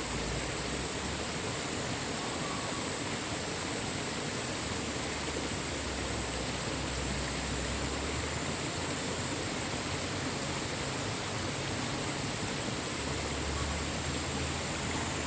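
Mountain valley stream rushing steadily, an unbroken wash of water noise.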